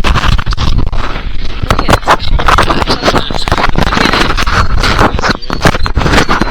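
Wind buffeting the handheld camera's microphone, a loud rough rumble, with scraping and knocks from the camera being handled.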